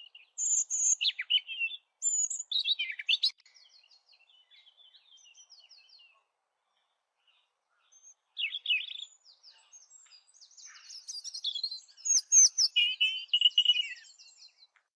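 European robin singing: high, rapidly varied warbling phrases, with a pause of about two seconds in the middle and louder phrases near the end.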